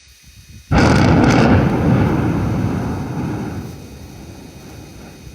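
A sudden loud boom about a second in, followed by a deep rumble that fades away over about three seconds.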